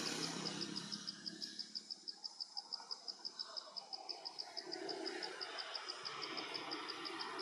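An insect chirping in the background: a steady, high-pitched pulsing of about six chirps a second that never changes pace, over a soft outdoor hiss.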